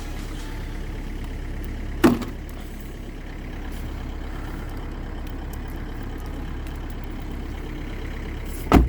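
Renault Megane 3's 1.5 dCi four-cylinder turbodiesel idling steadily just after a cold start in frost, its idle a little raised because the engine is cold. Two short loud thumps cut in, one about two seconds in and one near the end.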